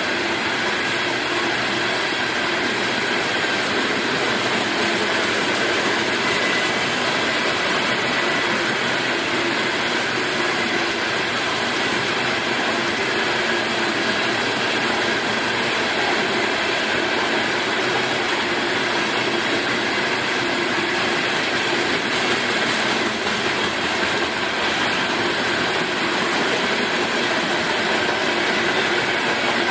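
Train cars rolling past steadily, a continuous noise of wheels on rails with no break.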